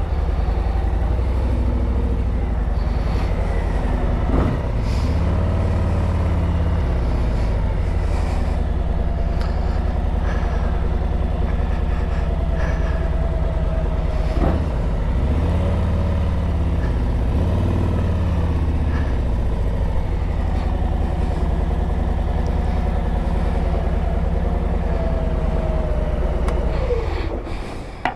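A motor vehicle engine running loudly and steadily, its pitch rising and falling several times as it speeds up and slows down, with a couple of brief knocks.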